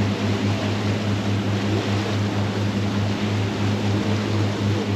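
A steady, low engine hum with a faint throb, running evenly under a broad hiss.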